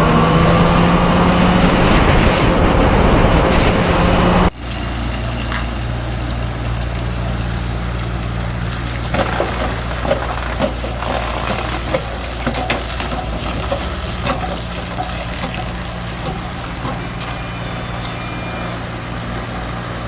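Loud music that cuts off abruptly about four seconds in, followed by the steady hum of a vehicle engine and road noise with scattered light clicks.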